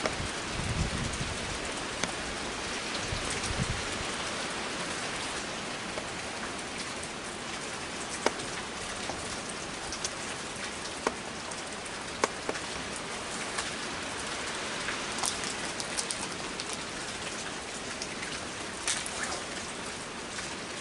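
Heavy rain falling steadily, an even hiss, with scattered sharp ticks of drops striking nearby surfaces and a couple of brief low rumbles in the first few seconds.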